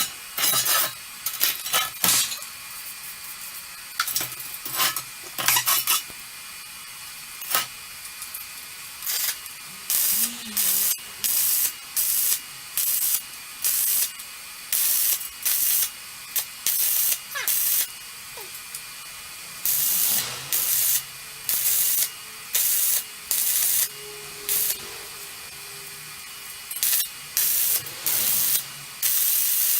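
Welding arc sizzling and crackling in short bursts about a second apart, a welder laying stitch or tack welds on steel.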